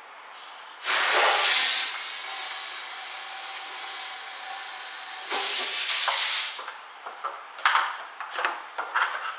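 Air hissing as it is blown into a disconnected fuel line at the fuel tank to pressurize the tank and push fuel through, a check for a blocked line. A loud blast about a second in, a steadier hiss for several seconds, a second loud blast, then a scatter of light clicks and taps.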